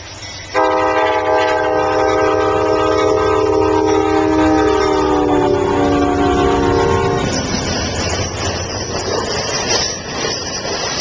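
Amtrak passenger train's locomotive horn blowing one long chord close by, starting suddenly about half a second in and dropping in pitch partway through as the locomotive passes. It cuts off about seven seconds in, leaving the steady rush and clatter of the train's cars going by.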